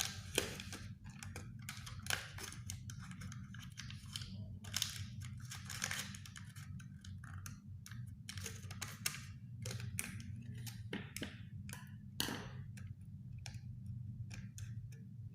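A cardboard cigarette pack being handled, folded and cut with a cutter and scissors: irregular scraping, rustling and snipping, over a steady low hum.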